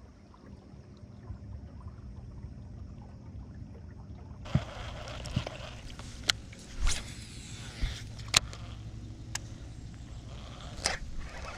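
Ambience aboard a small fishing boat on the water: a faint steady hum, then from about four and a half seconds in, a noisier bed of water and outdoor sound with scattered sharp knocks and clicks.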